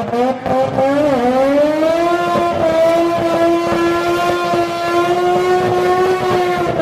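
Drag car's engine revving high and held there through a burnout. The pitch climbs, dips briefly about a second in, then rises again over the next second or so and holds a steady high tone.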